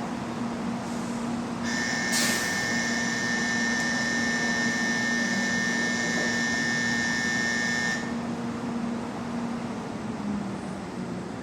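A steady electronic warning tone sounds for about six seconds, starting about two seconds in, with a sharp clunk just after it begins, over the steady low hum of a 700 series Shinkansen standing at the platform just before departure.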